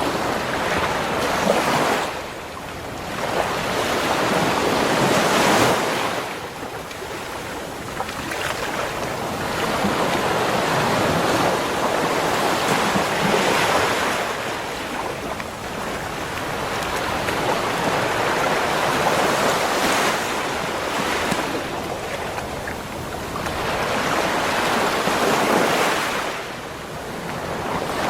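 Ocean surf on a beach shore: waves break and wash in, swelling and ebbing in a slow cycle of about five waves.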